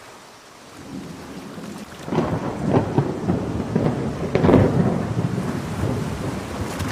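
Thunder over steady rain: a low rumble builds about a second in, breaks into loud crackling peals from about two seconds in, peaking twice, then rolls off slowly.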